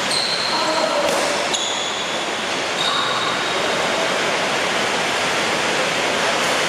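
Heavy rain falling, a steady dense hiss of noise.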